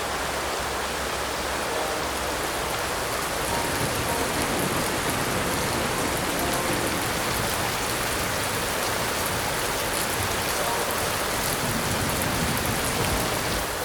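Heavy rain falling steadily, a dense even hiss with fine pattering drops.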